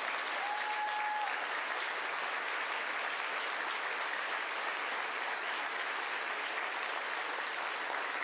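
A room full of people applauding steadily, with a short steady tone about half a second in.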